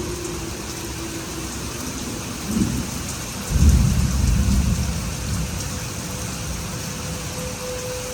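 Steady rain during a thunderstorm. A brief low rumble of thunder comes about two and a half seconds in, then a louder, deeper rumble starts suddenly about a second later and fades over a couple of seconds.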